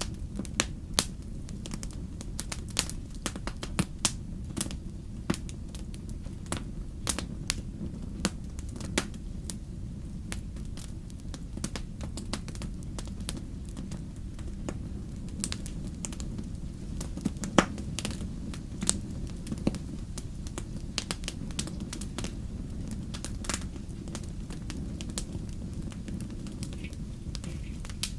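Wood fire in a fireplace crackling: irregular sharp pops and snaps over a steady low rumble of the flames, with one louder pop about two-thirds of the way through.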